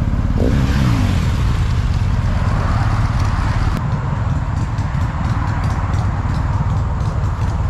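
Motorcycle engine running while riding, with wind and road noise. About half a second in, the engine note falls sharply, then settles into a steady low drone.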